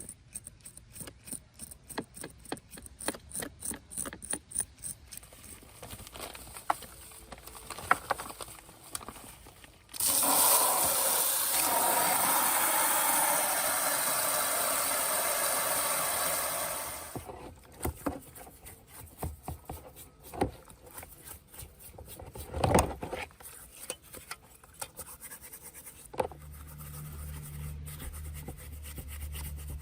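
Hand work on a small metal model car: quick scraping strokes, a loud steady hiss lasting about seven seconds, then scattered sharp knocks and a low hum near the end.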